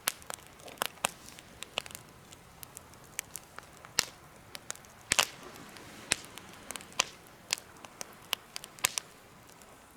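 Wood campfire crackling in a homemade fire stand: irregular sharp pops and snaps over a faint steady hiss, with the loudest snaps about four and five seconds in.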